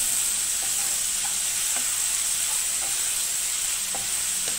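Shallots and tomatoes sizzling in hot oil in a nonstick kadai as a wooden spatula stirs them. The hiss is steady, with a few faint scrapes of the spatula against the pan.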